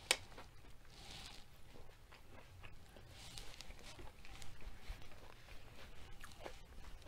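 A person chewing food with the mouth closed, close to the microphone: soft, faint mouth and chewing sounds with small clicks, and one sharp click just after the start.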